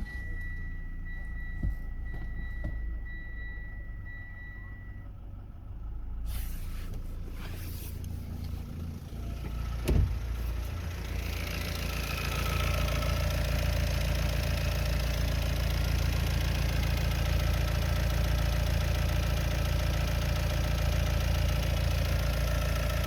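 Mitsubishi ASX 1.8 DI-D four-cylinder diesel engine idling steadily just after being started, with a dashboard warning chime beeping evenly for the first five seconds. A single thump comes about ten seconds in, after which the engine sounds fuller and louder.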